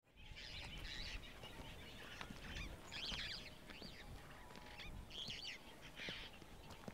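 Faint outdoor ambience with birds calling in short, chattering bouts that repeat about every second, over a low, steady background rumble.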